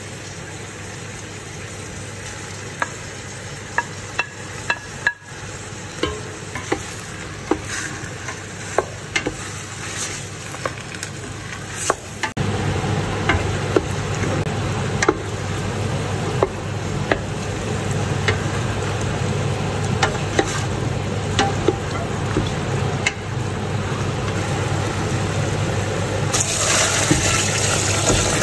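Pork, onions and tomatoes sizzling in a stainless steel pot while a wooden spoon stirs them, with frequent sharp clicks of the spoon against the pot. Near the end water is poured in with a rushing hiss.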